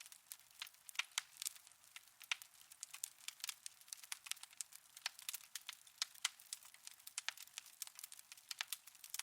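Wood fire burning in a fireplace, crackling with a dense, irregular run of sharp pops and snaps, several a second, without any low rumble.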